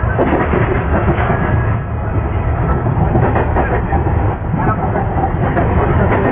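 MEMU electric commuter train running along the track, heard from on board: a steady rumble with scattered short clicks from the wheels on the rails.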